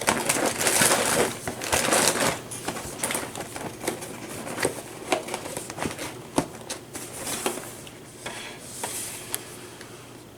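Crunchy birthday cake cereal being chewed, with dense crunching in the first couple of seconds, then separate sharp crunches and clicks that grow quieter near the end.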